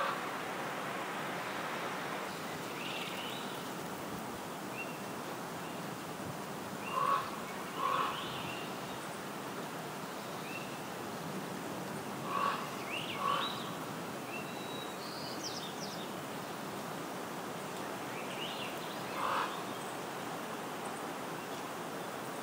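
Outdoor ambience of wild birds calling over a steady hiss: two short, louder calls about seven seconds in, another two about twelve seconds in and one more near the end, with thinner high chirps in between.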